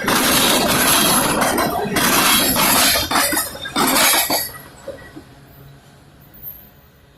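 Norfolk Southern train's cars rolling past on the rails, loud with metallic clanking. About four seconds in, the noise drops away sharply and fades to a faint rumble as the train goes by.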